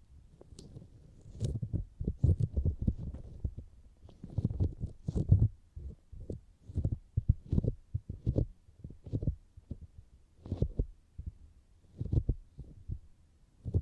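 Fingers tapping on the outer ear of a binaural microphone: soft, muffled, irregular thumps, a few a second in clusters.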